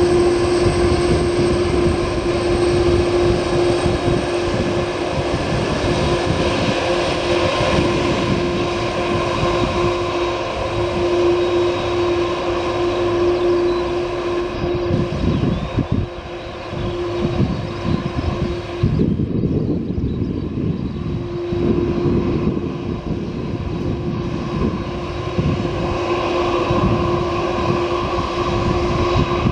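Boeing 767-424ER's General Electric CF6-80C2 turbofan engines running: a steady whine over a continuous hiss and an uneven low rumble. The upper hiss thins out for a couple of seconds about two-thirds of the way through.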